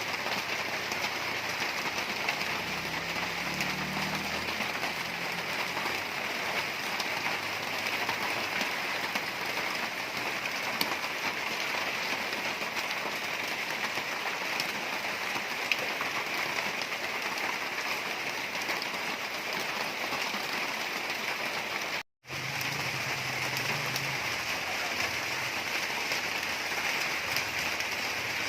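Steady, even hiss of water, like rain falling or water rushing. It cuts out completely for a moment about 22 seconds in, then carries on unchanged.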